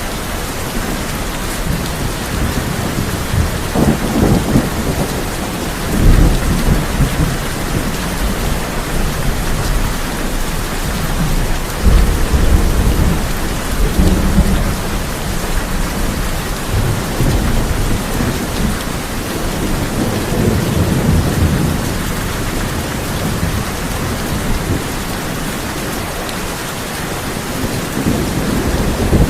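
Heavy rain falling steadily on a tin roof, with several rolls of thunder rumbling through it; the loudest come about six and twelve seconds in.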